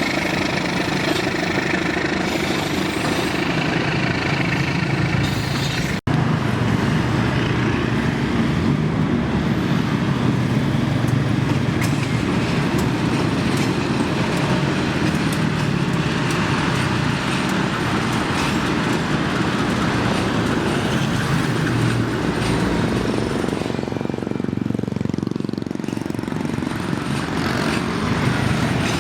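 Train running on the tracks at the station, a steady continuous noise with a brief cut-out about six seconds in.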